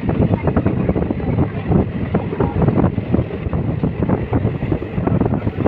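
Local passenger train running, with a steady rumble and dense irregular rattling, and wind buffeting the microphone.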